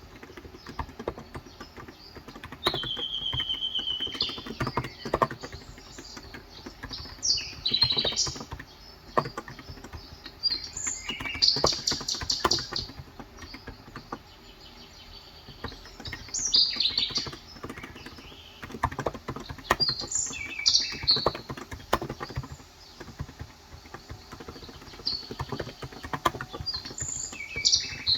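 Typing on a COX Endeavor electro-capacitive tenkeyless keyboard with 35 g switches: soft keystrokes in irregular runs. Birds chirp repeatedly over it, with short high calls coming every second or two.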